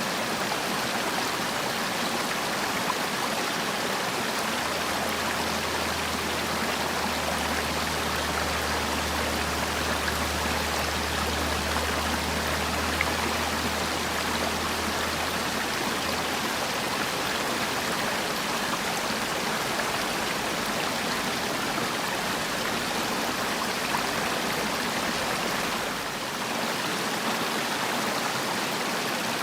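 Mountain valley stream, water rushing in a steady, even flow.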